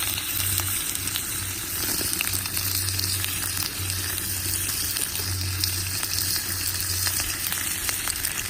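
Wood fire burning in a pail-can stove: a steady hiss with many small crackles and pops.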